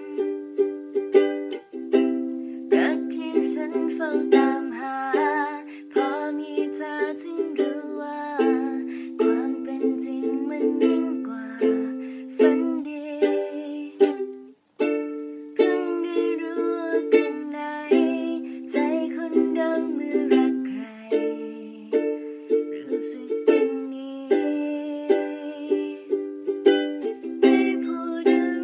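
Solo ukulele playing an instrumental passage of a slow love song: strummed chords mixed with picked melody notes, with no bass beneath. It breaks off briefly about halfway through, then carries on.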